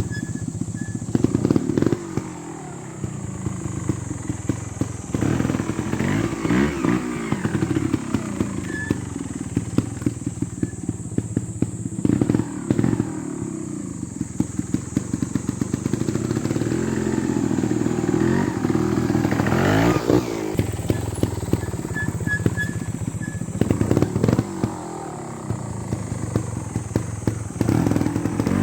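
Beta Evo 300 trials motorcycle engine running at low revs, with repeated throttle blips whose pitch rises and falls several times, and frequent short sharp knocks.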